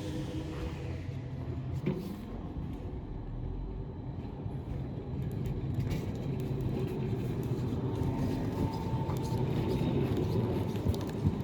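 Roslagsbanan narrow-gauge electric train running, a steady low rumble with a short rising tone about two seconds in and a steady higher tone later, then a few sharp clicks near the end.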